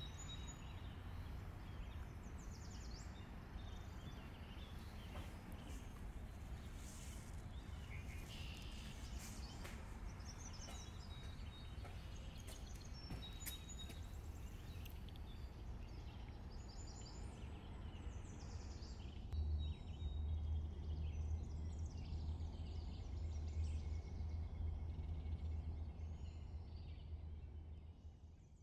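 Background ambience: a steady low rumble with scattered faint high chirps. The rumble grows louder about two-thirds of the way through, then everything fades out at the end.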